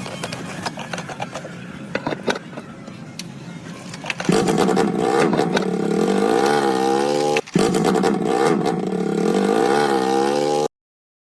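Restored vintage motorcycle's engine starting up about four seconds in and running loudly, blipped up and down in revs twice, with a brief break partway through. Before it there are a few scattered clicks and knocks, and the engine sound cuts off abruptly near the end.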